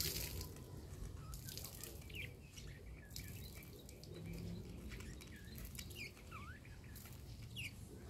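Wild garden birds chirping: many short calls, some rising, some falling, scattered throughout. Brief rustling swishes come every second or so over a steady low rumble.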